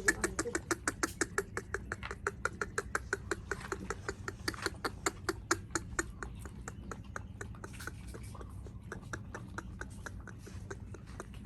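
A dog eating, making quick, regular smacking clicks about five times a second that grow fainter after about six seconds.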